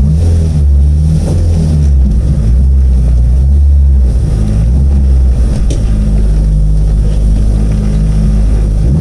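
Car engine and drivetrain heard from inside the cabin while driving, on a road test of a freshly fitted 1.6 gearbox with a limited-slip differential. The low drone shifts up and down in pitch several times as the engine speed changes.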